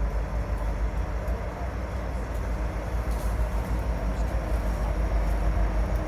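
Florida Gulf & Atlantic diesel freight train running by, a steady low rumble.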